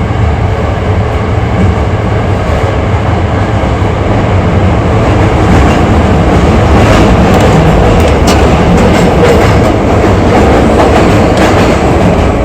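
Hankyu 8300 series commuter train running through the Sakaisuji Line subway tunnel, heard inside the car: steady wheel-and-rail running noise with clicks over the rail joints. It grows louder about five seconds in.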